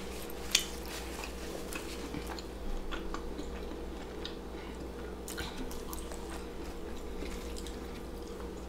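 Close-miked chewing of deep-fried, battered food, with scattered soft mouth clicks and smacks, the sharpest about half a second in, over a steady low hum.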